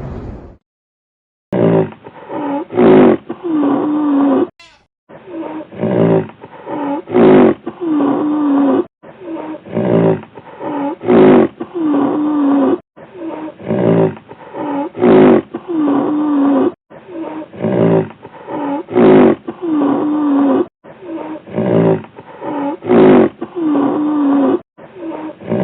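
A big cat roaring and growling, the same few-second stretch of calls repeated about six times with brief silent breaks between.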